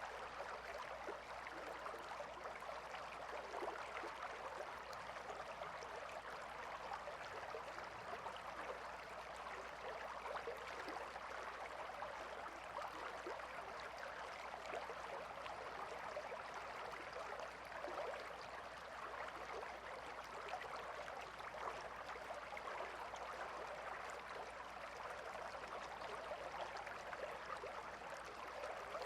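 River water flowing steadily, an even, continuous babble.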